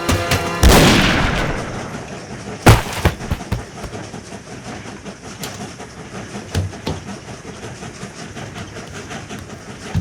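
Gunshots over a moving train: a loud burst about half a second in that dies away over a second, a sharp, very loud shot near three seconds, then several fainter scattered shots, with the steady rush of the running train beneath.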